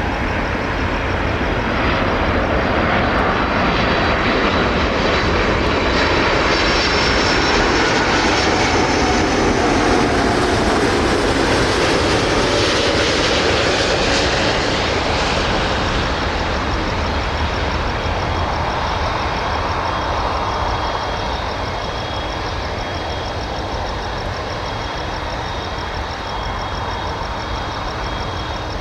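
Airbus A330F freighter's jet engines passing overhead: a roar with a high whine that builds to its loudest about halfway through, then fades away.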